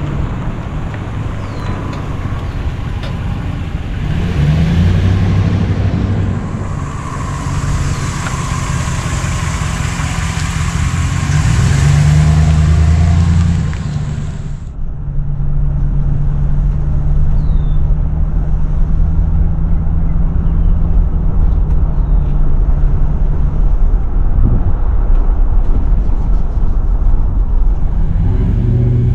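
Pickup truck's 5.7 L HEMI V8 running under way, its pitch climbing twice in the first half and then holding steady. A loud rush of wind and road noise cuts off abruptly about halfway through.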